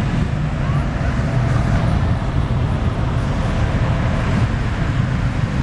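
Engines of classic cars driving slowly past, a steady low rumble.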